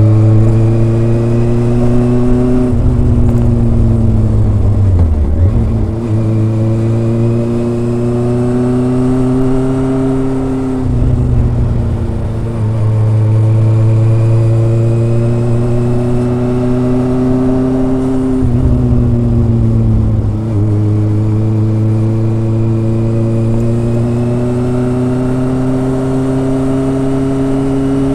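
Kawasaki ZRX's inline four-cylinder exhaust heard while riding. The engine note climbs slowly under throttle and falls back a few times, about 3, 11 and 19 seconds in, before climbing again.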